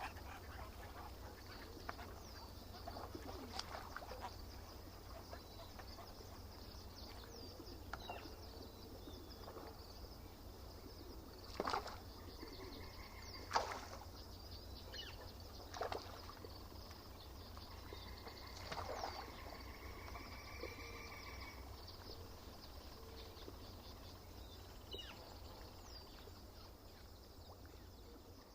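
Lakeside ambience with birds calling, broken by a few short, sharp sounds, the loudest about halfway through. A low steady rumble runs underneath.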